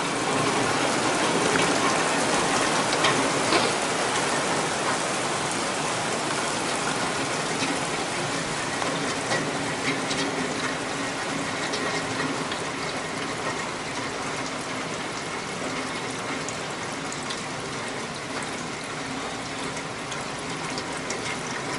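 Heavy rain from a pop-up thunderstorm pouring steadily, easing gradually over the stretch.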